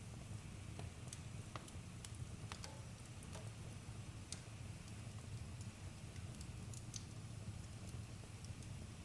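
Wood campfire crackling: scattered, irregular sharp pops and snaps over a low, steady rumble.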